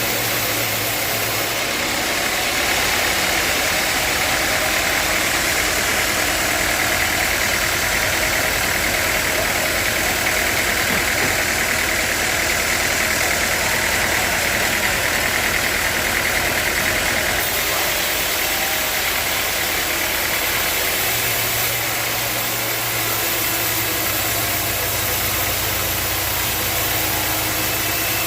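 Sawmill machinery running steadily with a constant mechanical drone. A higher-pitched hiss sits over it for much of the first half and eases off a little past the middle.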